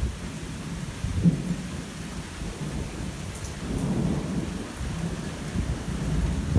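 Thunder rumbling long and low over steadily falling rain, the rumble swelling about halfway through.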